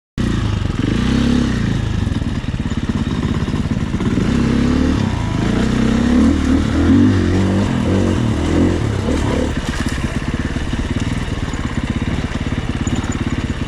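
Dirt bike engine running as the bike is ridden, revving up and down. It starts abruptly just after the beginning.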